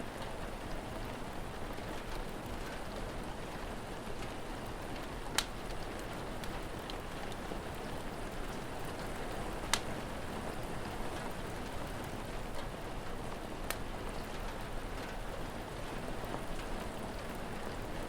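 Steady rain, with the sharp crackles of a fire: three louder pops several seconds apart and a few faint ticks.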